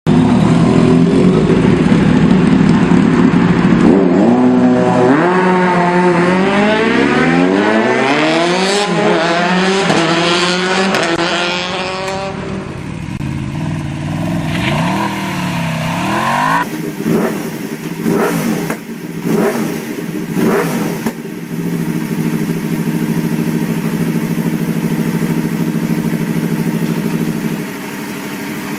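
Sport motorcycle engine running loud, then revving with its pitch climbing in several sweeps and dropping back. Two quick blips of the throttle follow, then a few sharp crackles, and it settles into steady running.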